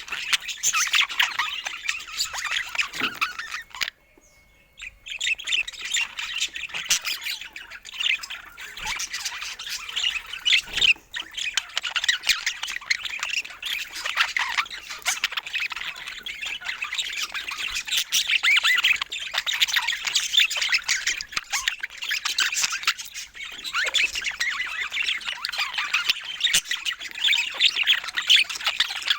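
Pet budgerigars chattering, a dense run of rapid chirps, warbles and squawks, with a brief gap about four seconds in.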